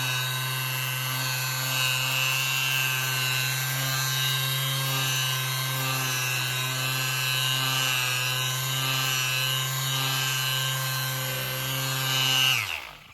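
Bosch GSS 23 AE orbital finishing sander running steadily while sanding, a constant motor hum with a hissing top end. Near the end it is switched off: the pitch falls as the motor winds down, and it stops.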